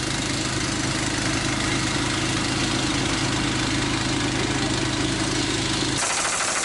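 An engine idling steadily. About six seconds in, the low hum drops away abruptly and a higher, fast rattle is left.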